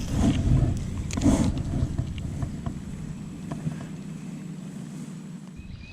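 Wind rumbling on the microphone aboard a fishing kayak, with a few faint clicks and light knocks; the low rumble cuts out abruptly near the end.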